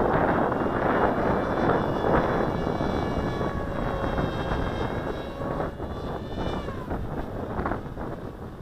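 Wind buffeting the microphone, with the thin whine of the RC flying wing's electric motor and propeller in flight above it. The whine drops in pitch and fades about seven seconds in.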